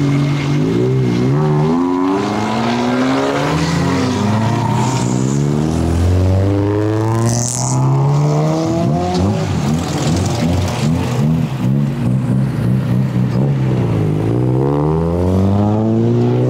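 Several Honda Civics' D-series four-cylinder engines running and revving together as the cars pull away, their pitch repeatedly climbing and falling and overlapping.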